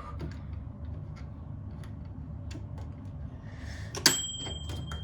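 Microwave oven with a low steady hum, then about four seconds in a sharp click and a single high electronic beep lasting about a second.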